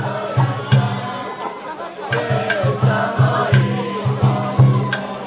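Japanese festival hayashi from a float: a steady drum beat, about two to three strokes a second, with a wavering bamboo flute melody and sharp clangs of a small hand gong over it.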